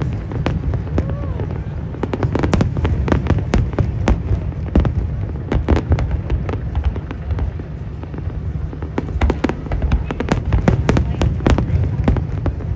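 Aerial fireworks bursting: an irregular, rapid series of bangs and crackles over a continuous low rumble.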